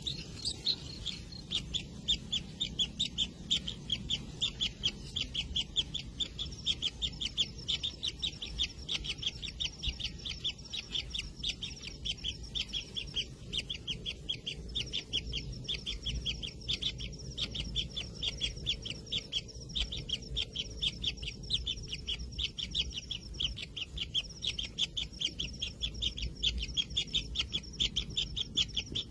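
Kingfisher nestlings calling inside their nest burrow: a continuous run of rapid, high, short repeated calls, several a second, with a thinner steady high note joining in.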